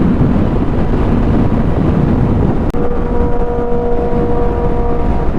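Motorcycle riding on the road, recorded on a helmet camera: steady engine and wind rush. A little past halfway there is a brief break, then a steady whine of several tones runs over the riding noise until near the end.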